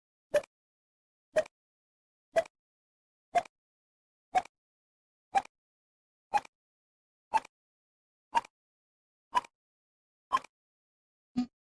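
A series of short, sharp cartoon sound-effect blips, one about every second with silence between, each a step higher in pitch than the one before; near the end the pitch drops back to a lower blip.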